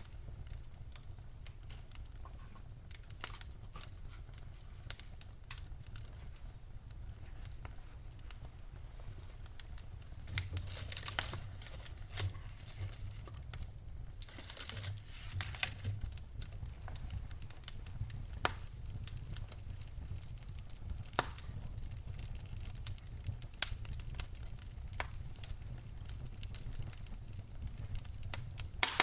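Wood fire crackling in a fireplace: irregular sharp pops and snaps over a low, steady rumble of flames, with a couple of short stretches of hiss midway.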